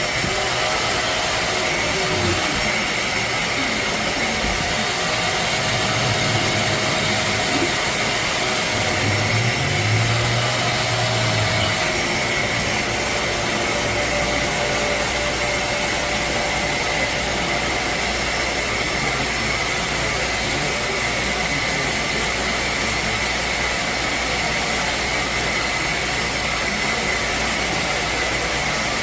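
Hoover CleanSlate Plus portable spot cleaner running: a steady, loud rush of suction air with a high whine from its motor.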